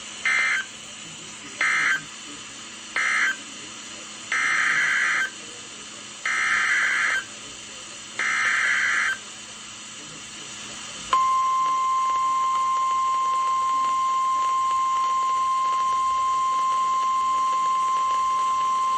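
NOAA Weather Radio alert signalling: three short warbling digital data bursts (the end-of-message code), then three longer bursts (the SAME header for the next warning), over radio hiss. About 11 seconds in, the steady 1050 Hz warning alert tone starts and holds, announcing a new warning message.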